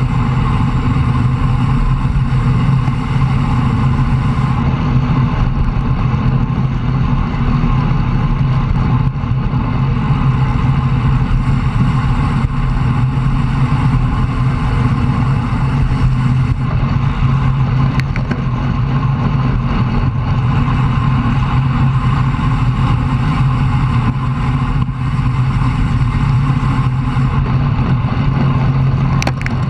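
Steady loud rush of wind and road noise on a bicycle-mounted camera's microphone while riding at speed.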